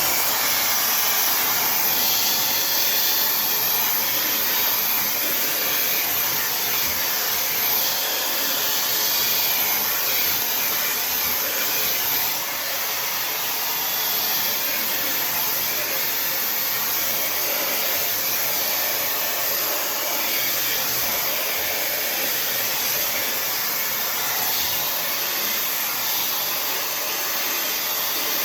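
Tymo Air Hype hair dryer blowing steadily, a loud, even rush of air.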